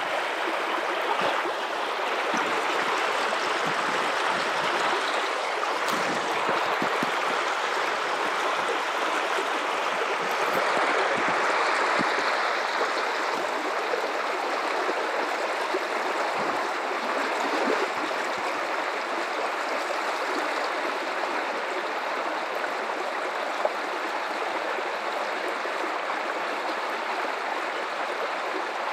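River water running steadily over rocks, a continuous rushing and gurgling flow, swelling slightly about a third of the way in.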